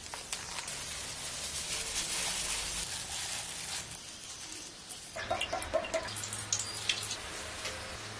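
Hens clucking in a series of short calls from about five seconds in, over a steady hiss.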